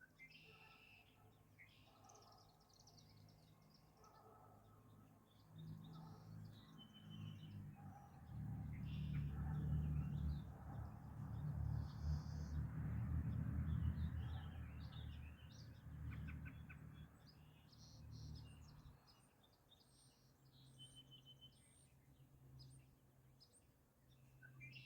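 Wild birds chirping and calling, with short scattered notes throughout. A low rumble builds from about six seconds in, is loudest midway, and fades out by about nineteen seconds.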